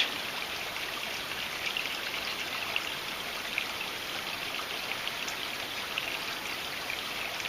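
A creek flowing steadily: an even rush of water, with faint scattered ticks over it.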